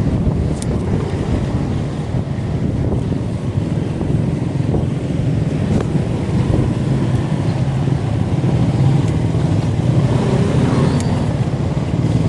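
Steady wind rumble buffeting the microphone of a moving bike, mixed with road noise.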